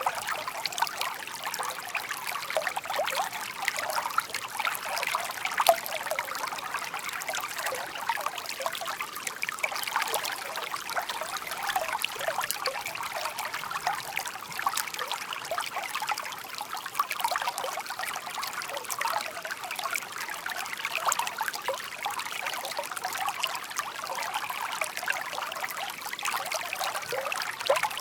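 Shallow stream babbling and trickling steadily over stones, a continuous bright splashing with many small droplet sounds.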